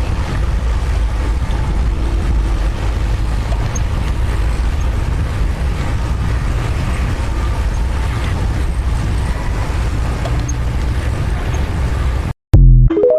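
Steady low rumble of a heavy construction machine's diesel engine running. It cuts off abruptly near the end, followed by a brief loud pitched note.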